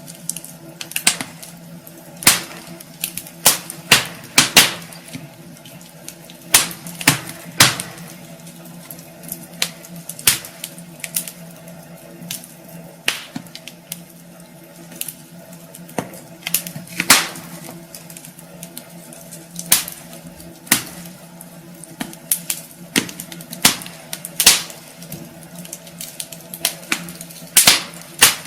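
Wood fire crackling in a fireplace: irregular sharp pops and snaps, some louder than others, over a steady low hum.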